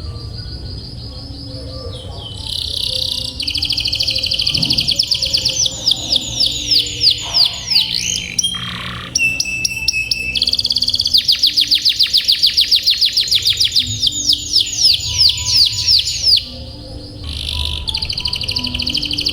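Domestic canary singing: long, fast rolling trills and chirps, high-pitched, broken by brief pauses around nine seconds in and again near seventeen seconds.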